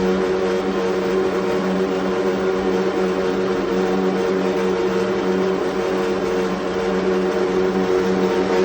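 Baxi Eco5 Compact 24F wall-hung gas boiler humming loudly and steadily at one low pitch with overtones, the hum it gives while heating its indirect hot-water cylinder, even though the system and cylinder have been flushed.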